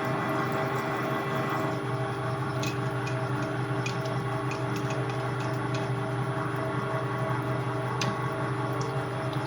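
Metal lathe running under power: a steady machine hum with a mid tone that pulses a few times a second, and scattered light clicks.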